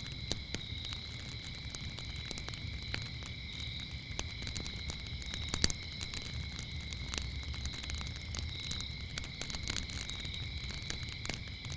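Wood fire crackling with scattered pops, over a low rumble of the flames, with one sharp, loud pop about five and a half seconds in. Crickets chirp steadily underneath.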